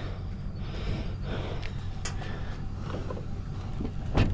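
Steady low mechanical hum with scattered light knocks, and a sharp knock near the end.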